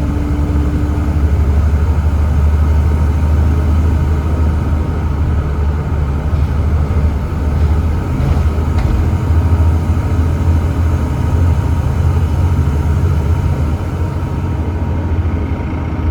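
Volvo B7TL double-decker bus with its Volvo D7C 7.3-litre diesel engine running steadily on the move, a deep constant rumble with a faint steady whine above it.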